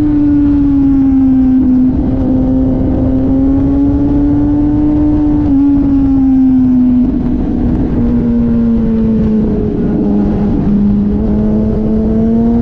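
Motorcycle engine running at sustained high revs while riding on a race track, heard onboard under a heavy rush of wind noise. The engine note sags in pitch past the middle and climbs again near the end.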